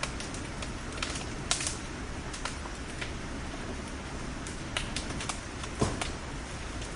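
Bonfire crackling: irregular sharp pops and snaps of burning wood over a steady hiss, with one louder pop near the end.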